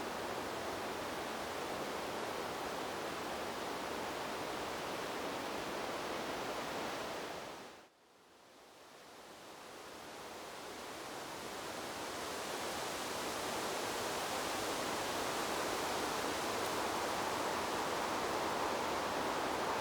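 Steady rushing noise of wind blowing through trees. It fades out to near silence about eight seconds in, then swells back up over several seconds.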